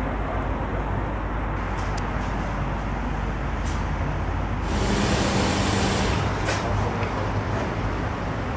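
Lamborghini Gallardo LP560-4 Spyder's V10 engine idling steadily, a low hum that grows louder and fuller about five seconds in.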